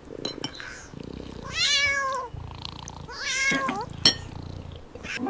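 A cat meowing twice, the second meow sliding down in pitch, with low purring in between. A sharp click sounds about four seconds in.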